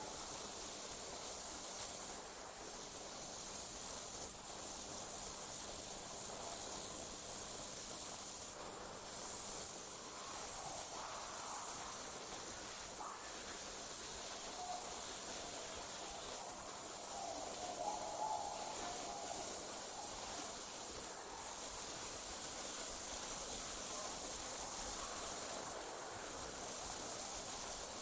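Night crickets chirring in a steady high-pitched trill that breaks off briefly every few seconds, with a few faint lower calls underneath.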